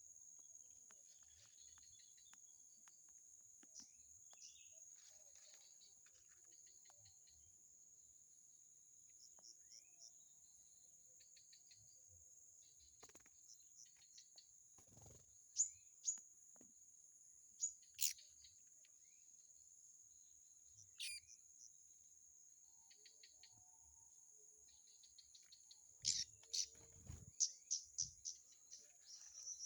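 Small birds chirping: scattered short, sharp high calls, with a quick run of calls near the end, over a steady high-pitched insect drone. A few low thumps come along with the final run of calls.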